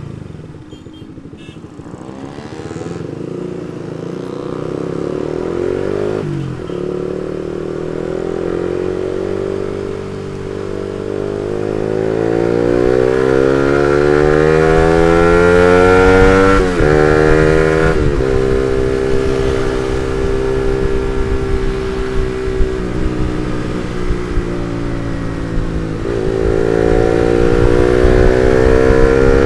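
Suzuki GSX-R150's single-cylinder engine through an R9 Misano aftermarket exhaust, riding and accelerating. The revs climb and drop sharply at gear changes about 6 and 17 seconds in, hold fairly steady for a while, then rise again near the end.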